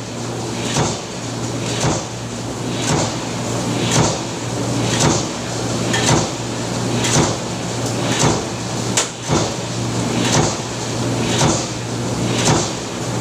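Power press running in a factory, stamping about once a second with a short clatter on each stroke, over the steady hum of its motor.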